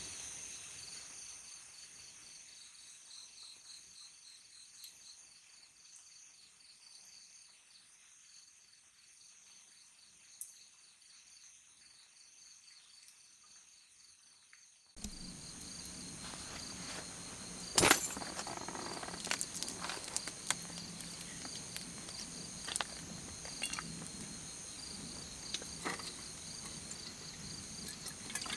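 Crickets chirping in steady high pulsing trains. About halfway through, the background gets louder, with scattered light clicks and one sharp knock.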